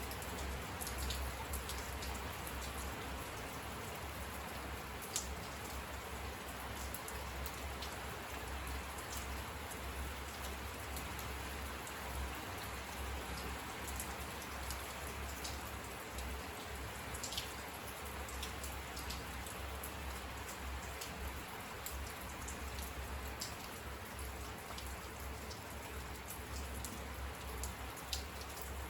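Steady rain falling, with individual drops ticking close by and a few sharper drop hits, one about five seconds in and one near the end.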